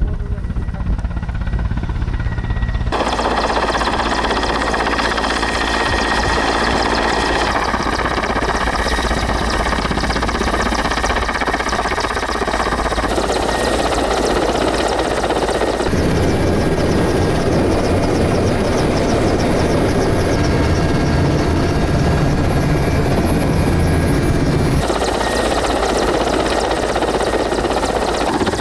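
Helicopter running steadily, with the engine and rotor heard in several cut-together shots; the sound changes abruptly every few seconds from one shot to the next.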